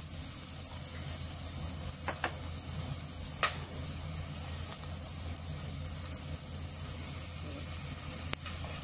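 Garlic, galangal and tom yam paste sizzling as they fry in oil in a pot over a gas burner. A few sharp clicks cut in, the strongest about three and a half seconds in.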